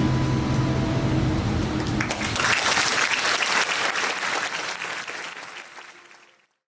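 The song's final chord rings on, then audience applause breaks out about two seconds in and fades away near the end.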